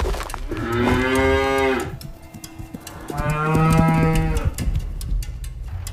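Cow mooing: two long moos, the first about half a second in and the second about three seconds in.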